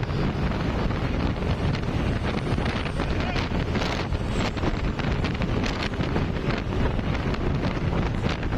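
Wind buffeting the microphone: a steady rushing noise with a low rumble that never lets up.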